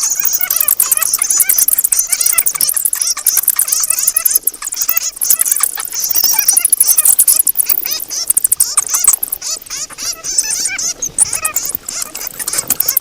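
Bats squeaking and chattering: a dense, continuous stream of rapid high-pitched squeaks and clicks from many animals at once.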